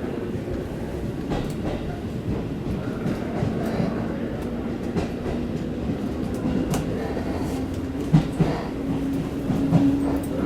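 Train running on the rails: a steady rumble with occasional wheel knocks. A steady hum comes in and grows toward the end, with a few heavy thumps about eight seconds in.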